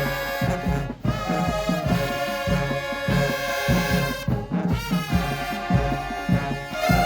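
Marching band playing: brass holding chords over a steady driving drum beat, with brief breaks about a second in and again midway.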